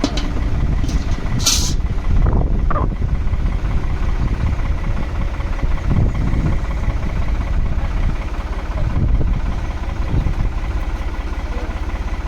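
Engine idling steadily. A brief hiss comes about a second and a half in.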